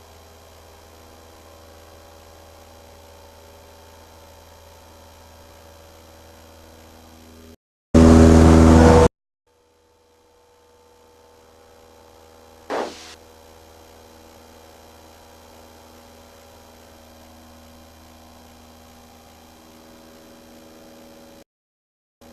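Faint steady hum of a Cessna 172's engine in the climb, heard through the cockpit intercom feed. About eight seconds in, a loud burst of noise lasting about a second cuts across it, followed by a short dropout, and a sharp click comes about thirteen seconds in.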